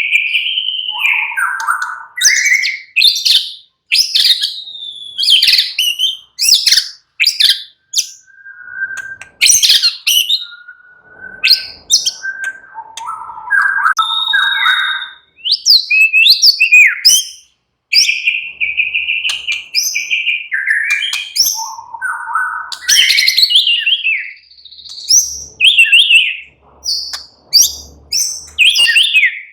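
White-rumped shama (murai batu) singing a long, varied song: clear whistles, fast chattering runs and sweeping notes in quick phrases separated by brief pauses, with a held steady whistle a little past the middle.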